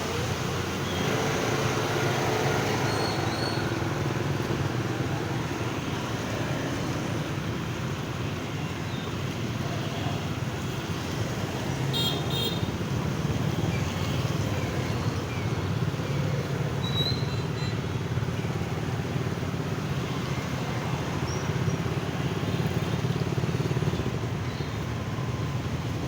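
Steady motorbike and road traffic running past, with a few short horn toots.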